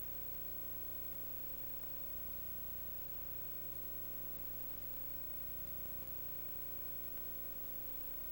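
Steady electrical hum and hiss with a few unchanging tones, and no other sound.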